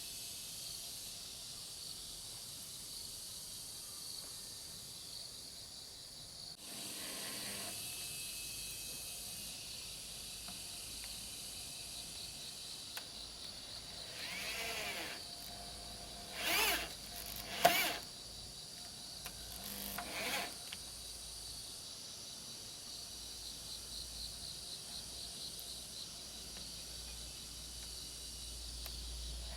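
Steady high insect drone, with a few short bursts of woodworking tool noise over it; the sharpest two come about 17 seconds in.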